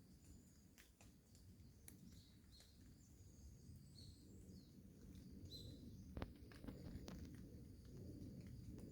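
Faint bird chirps: several short high calls scattered through, over a quiet low rumble of background noise, with a few light clicks, the sharpest about six seconds in.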